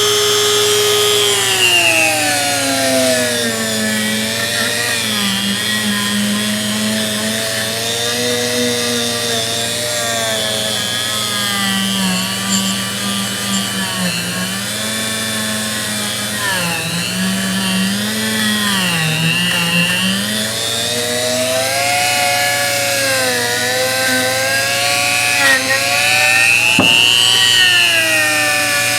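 Motor-driven wire wheel wire-brushing rust off a steel adjustable wrench, with a steady motor hum under it. The whine drops in pitch about a second and a half in and then wavers up and down as the wrench is pressed into the wheel and eased off. There is a sharp click near the end.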